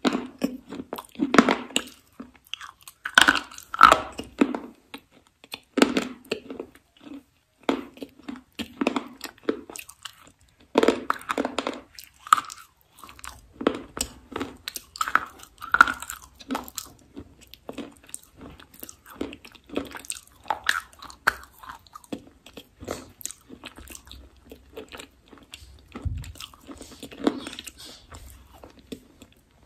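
Close-miked chewing and crunching of something hard and brittle in the mouth. Loud bites and crunches come thickly in the first half, then give way to softer, more scattered chewing.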